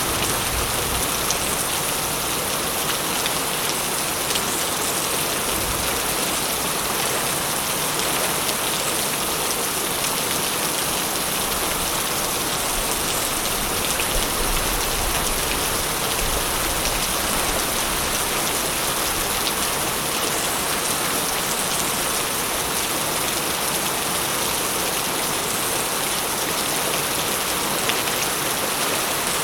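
Steady heavy rain, a dense even hiss with individual drops pattering on a surface, and a faint low rumble swelling at times underneath.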